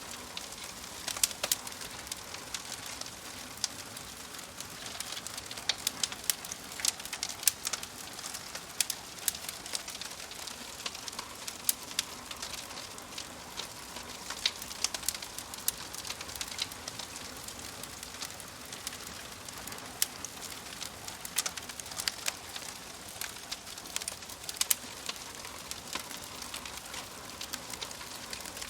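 Wood fire crackling in a wood-burning stove: a steady hiss with frequent sharp, irregular pops and snaps.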